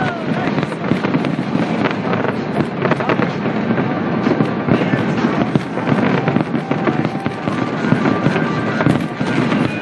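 Dense aerial fireworks display: a continuous rapid stream of overlapping bangs and crackles from many shells bursting at once.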